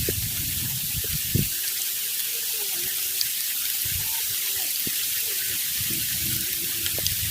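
Heavy rain hissing steadily, with a few dull knocks and faint wavering voices underneath.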